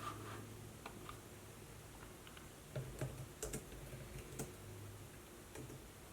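Laptop keyboard being typed on: a few scattered keystrokes, then a short cluster of key clicks in the middle, over a faint steady low hum.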